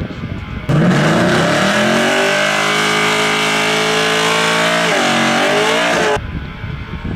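A drag-racing vehicle's engine running hard at full throttle. It starts abruptly, its pitch climbs quickly and then holds high. It dips and climbs again about five seconds in, then cuts off abruptly.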